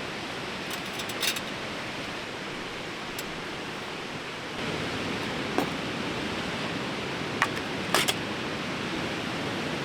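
A fast-flowing river rushing steadily, with several short light clicks scattered through.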